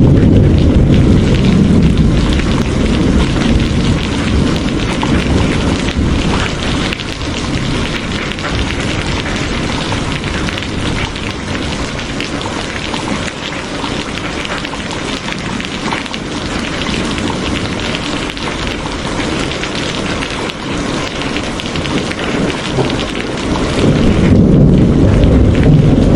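Steady rain falling, with thunder rumbling low at the start that fades away, then builds again near the end.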